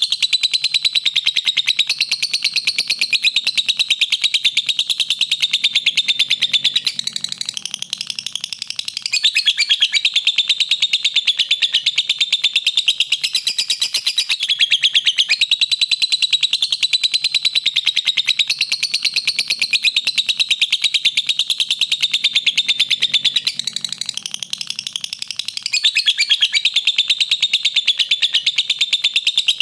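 Lovebird singing in a long, unbroken stream of rapid high chirps and chatter, easing softer for a couple of seconds twice.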